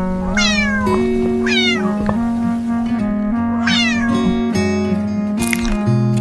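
A cat meows three times, high-pitched, each call falling in pitch, over background music of steady held notes.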